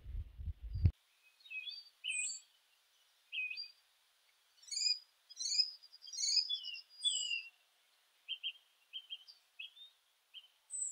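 Small birds chirping and whistling: short high calls, some rising and some falling, in clusters, busiest in the middle. A low rumble cuts off abruptly just under a second in.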